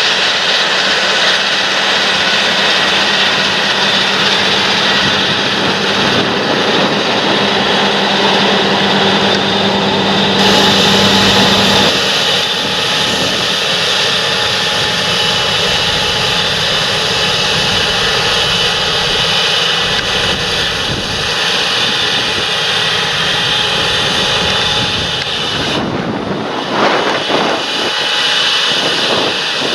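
Large John Deere farm tractor's diesel engine running steadily while working a field. The sound shifts in tone about a third of the way in and again near the end.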